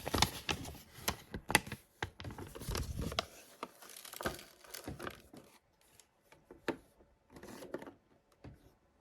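A paper map being unfolded and handled: paper rustling and crinkling with irregular crackles and clicks, busiest in the first few seconds and sparse toward the end.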